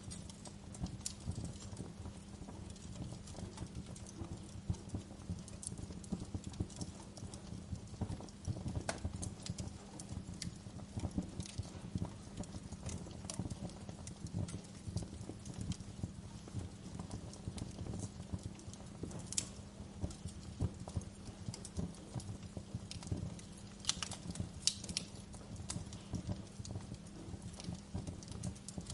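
Wood fire crackling: a dense run of soft low pops with sharper snaps scattered irregularly through it.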